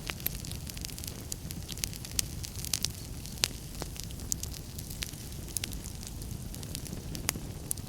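Wood fire crackling in a fireplace: a steady low rumble of the flames under irregular sharp pops and snaps, a few louder than the rest.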